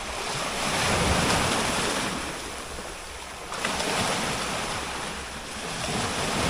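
Ocean surf washing onto the beach, the noise swelling with each wave every few seconds.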